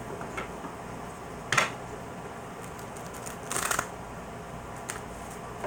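Tarot cards being shuffled and handled: a sharp snap of the cards about a second and a half in, a short rustling burst of card noise about two seconds later, and a few lighter clicks.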